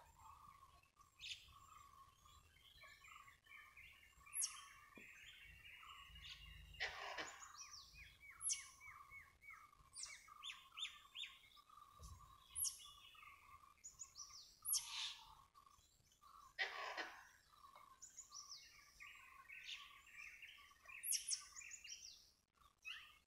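Forest birds calling and chirping: a chatter of repeated notes with many short, sharp high chirps over it, all faint.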